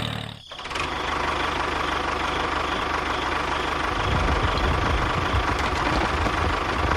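A small engine running steadily with a fast, even beat; its low rumble grows stronger about halfway through.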